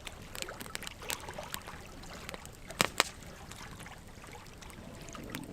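Logs burning in a campfire, crackling with irregular sharp pops over a soft hiss; two louder pops come close together about three seconds in.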